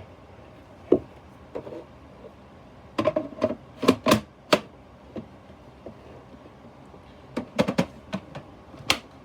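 Clicks and knocks of vacuum cleaner parts being handled. They come in irregular clusters, busiest around three to four and a half seconds in and again around seven and a half to eight seconds in.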